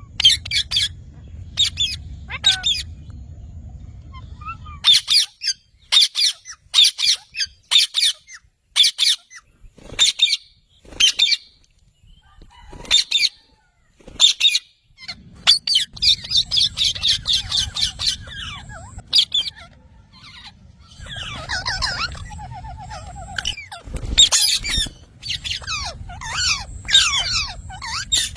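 Green parrot squawking: many short, harsh calls in quick bursts, with brief pauses between the bursts.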